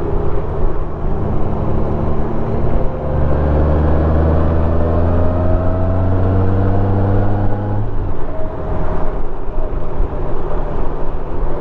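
Honda Gold Wing's flat-six engine running at road speed, with wind rushing over the microphone. The engine note climbs slowly for several seconds, then drops about eight seconds in.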